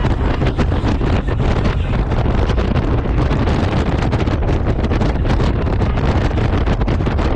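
Wind buffeting the microphone on a moving Honda Gold Wing motorcycle: a loud, steady low rumble with constant gusty flutter.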